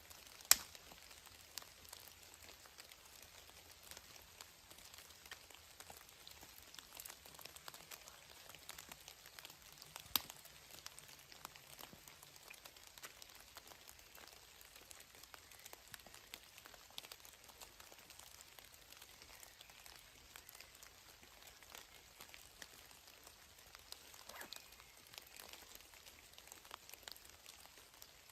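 Light, steady patter of raindrops, with many small ticks and a sharper tick about half a second in and another about ten seconds in.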